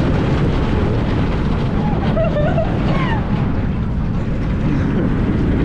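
Roller coaster ride heard from the front seat: steady wind buffeting the microphone over the rumble of the train on the track. A few brief rising and falling cries from riders come about two to three seconds in.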